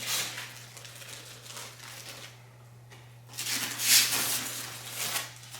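Clear plastic protective wrap being peeled and pulled off a new cordless stick vacuum, crinkling in a few bursts, the loudest about four seconds in, over a steady low electrical hum.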